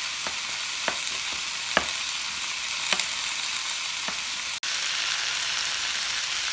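Onions and bell peppers sizzling steadily in hot oil in a wok on high heat, while a plastic spoon clicks against a ceramic ramekin about five times, stirring a cornstarch slurry. After a brief break about two-thirds through, the sizzle is a little louder.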